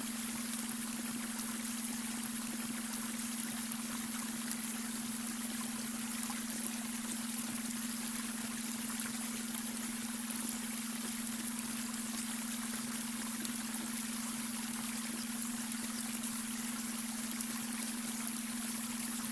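Babbling brook with water running steadily over stones, mixed with a steady, unchanging low hum: the beta-wave brainwave tone laid under the water.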